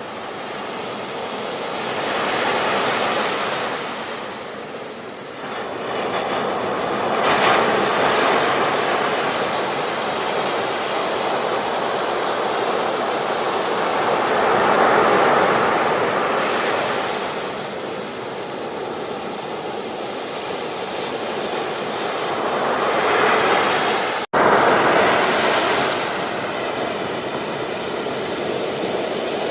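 Ocean surf on a beach: waves breaking and washing in, the rush of water swelling and ebbing every few seconds. A split-second gap in the sound comes near the end.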